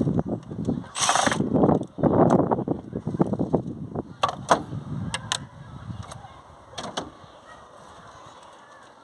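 Clicks, knocks and rattles of metal bolts and tools being handled on a Nissan Qashqai 1.6 petrol engine as its intake manifold bolts are taken out. There is a short rasping noise about a second in, and sharp separate clicks between four and seven seconds.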